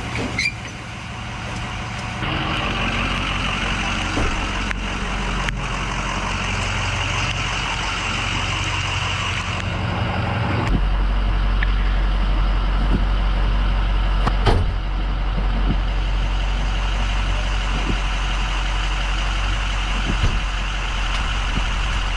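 Truck engine running steadily, its low hum growing stronger and deeper about ten seconds in, under a steady hiss of rain. One sharp click about two-thirds of the way through.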